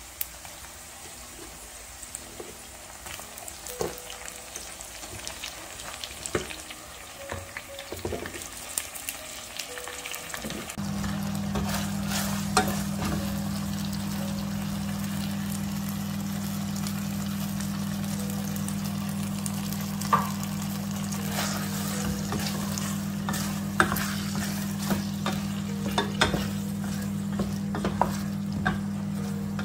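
Sliced onions, tomato and bell peppers frying in a stainless steel pot, with a wooden spoon stirring and knocking against the pot. About a third of the way in, a steady low hum starts and stays, louder than the frying.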